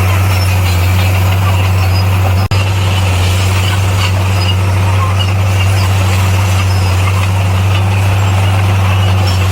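Bulldozer's heavy diesel engine running steadily under load with a deep, even drone. It drops out for a split second about two and a half seconds in.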